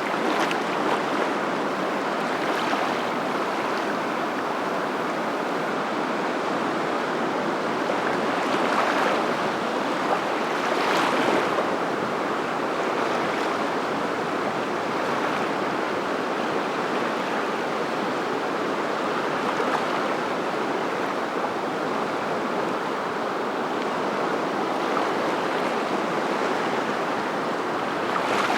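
Steady rushing water, swelling briefly now and then.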